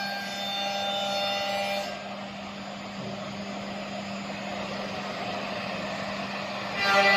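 Steady machine noise with a constant low hum, as from a CNC router running, with music for about the first two seconds and again near the end.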